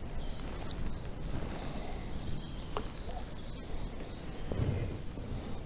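A small bird calling in a run of short, high, thin notes, about three a second, stopping about four seconds in, over a low rumble of wind.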